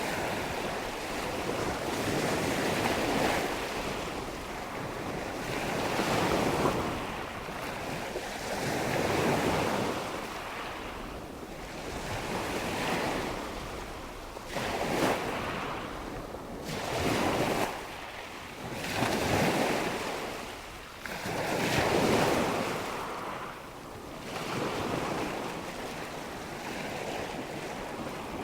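Recorded nature ambience of rushing water and wind: a steady whooshing wash that swells and ebbs about every two to three seconds.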